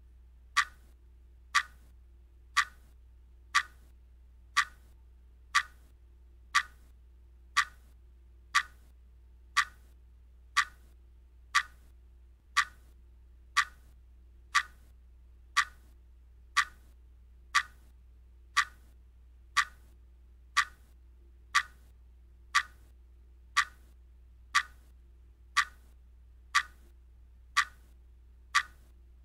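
Clock ticking from a countdown timer, one sharp, even tick each second, marking off the seconds as the timer runs down. A faint low hum lies beneath.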